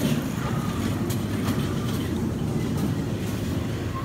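Miniature ride-on train rumbling steadily along the track, with a few sharp clicks about a second in.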